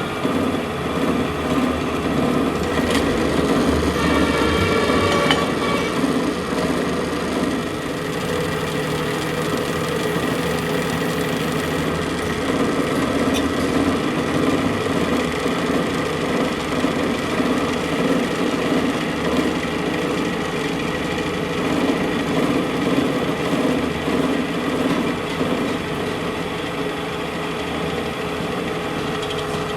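A workshop machine running steadily with a constant hum and vibration.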